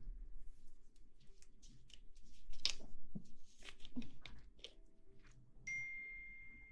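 Close-miked ASMR rustling and scratching: irregular crinkly, crackling strokes right at the microphone. Near the end a clear, steady ringing tone starts suddenly and slowly fades.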